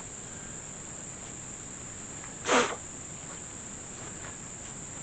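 Steady high-pitched chirring of insects in summer, with one short vocal sound about halfway through.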